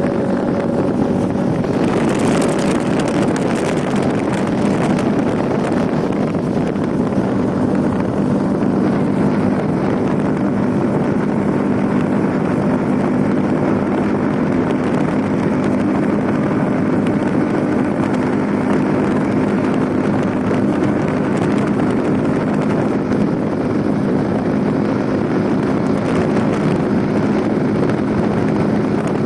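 An engine running steadily at an even pitch, with wind rushing on the microphone and a brief stronger gust of hiss about two seconds in.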